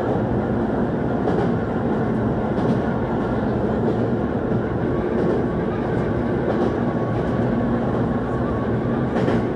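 A Kobe Electric Railway electric commuter train running along the track, heard from inside the front of the train: a steady rolling noise of wheels on rail, with a few faint clicks over rail joints.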